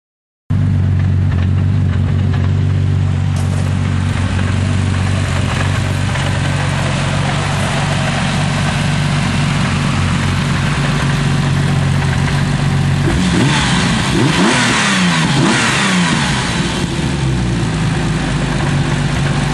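Turbocharged drag car's engine, an M5 E34 straight-six in a BMW E30, running at a loud steady idle. From about 13 to 17 seconds in, its pitch rises and falls as it is revved, then it settles back to a steady run.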